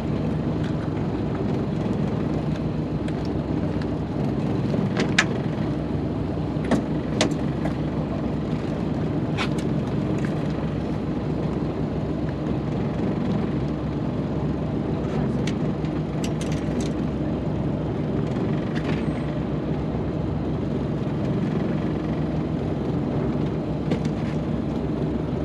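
A boat's engine running steadily in a low, even drone, with a few sharp clicks or knocks over it.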